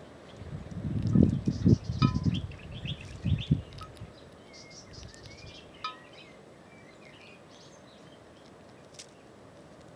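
Small songbirds chirping and trilling in short scattered phrases, fading out after about seven seconds. Strong low rumbling surges on the microphone in the first few seconds are the loudest sound.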